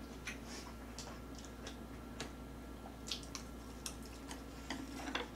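Faint eating sounds: a scatter of small clicks and soft wet mouth noises from chewing, over a low steady hum.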